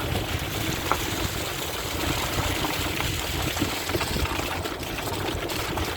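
Rainwater runoff flowing fast along a flooded dirt track, a steady rushing of water.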